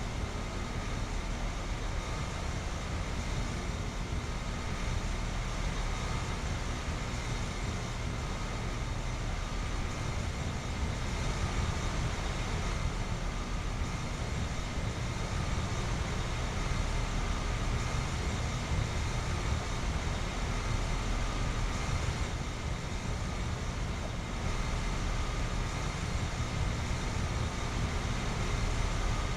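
ICP and Comfortmaker 2-ton central air conditioner condensing units running steadily: the Copeland scroll compressor hums and the condenser fan blows, with a faint steady high whine over the top.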